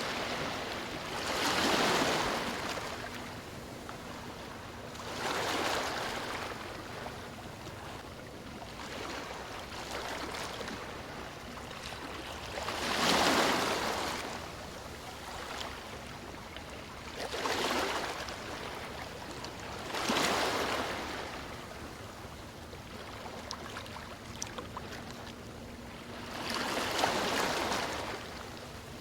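Sea waves breaking on a beach: about six swells of surf, each building and falling away over a couple of seconds, with a steady wash of water between them.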